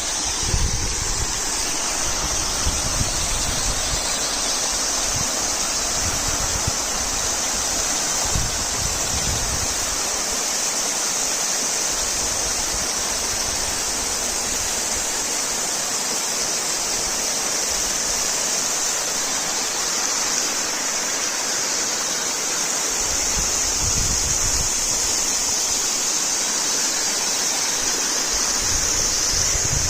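Waterfall, its falling water rushing in a steady, unbroken hiss.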